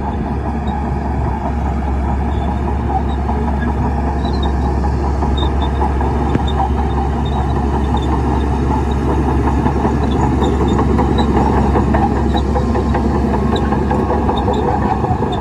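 Shantui crawler bulldozer's diesel engine running under load with a deep steady drone, its steel tracks clattering as it pushes sand.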